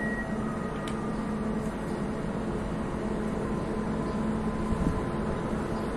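A train running at a railway station: a steady mechanical hum with a few faint held tones.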